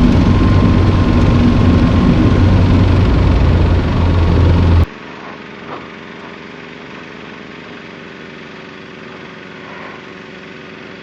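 Tecnam P92 light aircraft's engine and propeller running on approach, heard from the cockpit. For the first five seconds the engine and airflow are much louder, then the sound drops suddenly to a steady, quieter drone whose pitch sags slightly.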